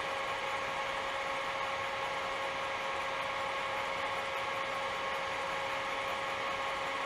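Laboratory heat engine running at speed, its wheel and mechanism giving a steady whirring hum of constant pitch. It is running fast because its hot reservoir has been raised to 130 °C.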